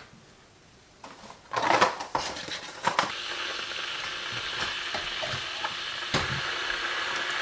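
Kitchen sounds: a few clinks of crockery and utensils, then a steady hiss that starts about three seconds in.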